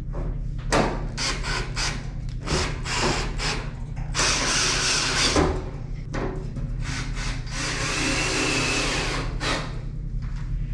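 Power drill running in two spells of a few seconds each, driving screws to fasten a bracket, after a few clicks and knocks of parts being handled.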